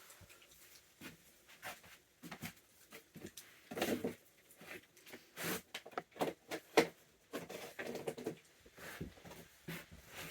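Irregular crunching and clicking of peanuts in the shell being cracked and chewed by a wild animal, with a few louder crunches.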